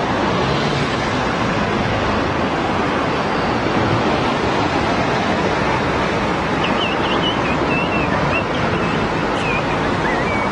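Steady wash of road-traffic noise, tyres and engines blended into one even roar. From about six seconds in, a few faint high chirps sound over it.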